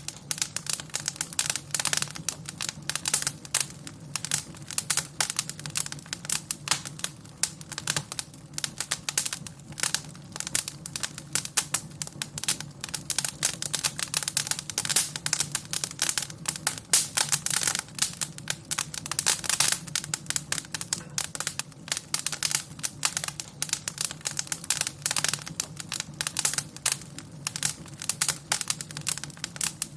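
Wood fire crackling in a fireplace: a dense, irregular stream of sharp snaps and pops over a low steady rumble.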